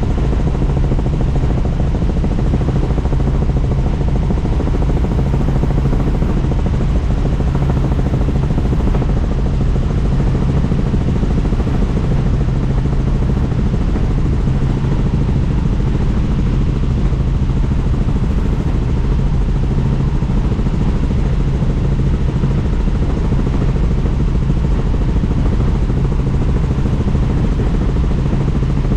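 Helicopter in flight, heard from inside the cabin: loud, steady rotor and engine noise with a low hum.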